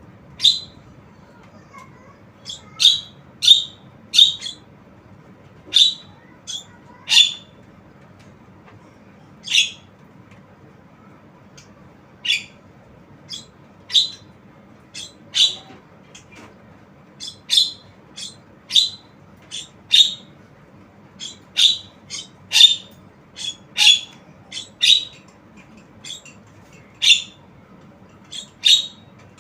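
Javan myna calling: many short, high calls repeated at uneven intervals, some in quick pairs.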